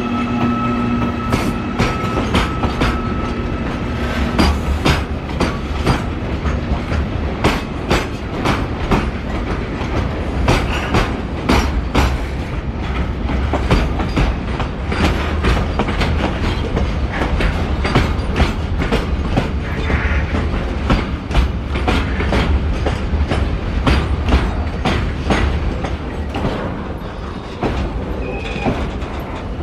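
Double-stack container wagons of a long freight train rolling past close by: a steady rumble with the wheels clicking and knocking over the rail joints in quick, irregular runs. A steady hum is heard for the first few seconds, and the sound eases a little near the end.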